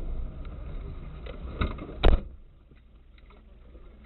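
Low rumble of a car's engine and road noise heard from inside the cabin, with a few light clicks, then one sharp knock about two seconds in, after which the rumble drops much quieter.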